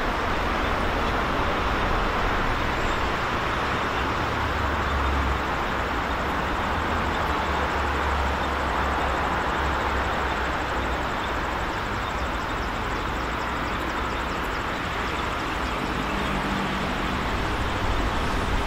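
Steady rumble of a distant diesel-hauled passenger train running on the line, mixed with road traffic noise, with a low rumble that swells and fades.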